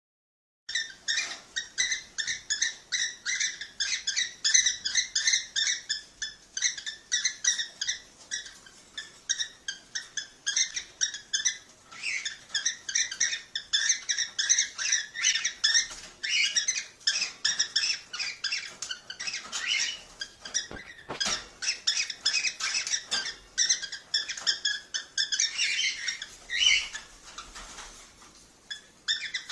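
Cockatiels chirping: a dense, continuous run of short high-pitched calls, several a second, starting abruptly after a moment of silence.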